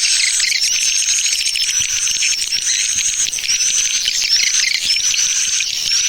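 Swiftlet lure call ('tarik' pull sound), played as a recording to attract swiftlets into a bird house: a loud, dense, unbroken chatter of high swiftlet chirps, with a rising whistled chirp repeating about once a second.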